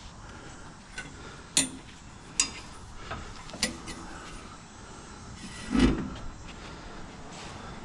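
Bungee cord hooks and metal scrap clicking and clinking a handful of times as a load is strapped down, with a louder dull thump about six seconds in.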